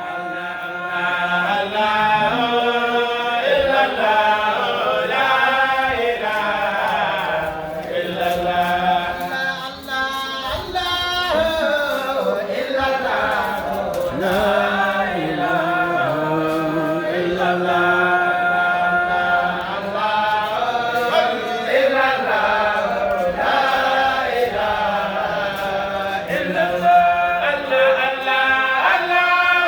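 A group of voices chanting together in Islamic devotional praise, the melody rising and falling, with a steady low note held underneath for much of the time.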